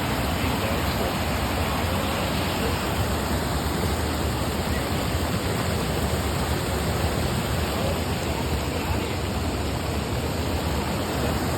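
Waterfall's water pouring down, a steady rushing.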